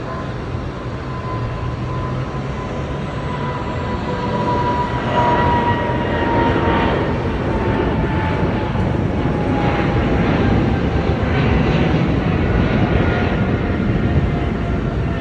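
Jet airliner passing overhead, its engine noise swelling, with a whining tone that slides slowly down in pitch as it goes by.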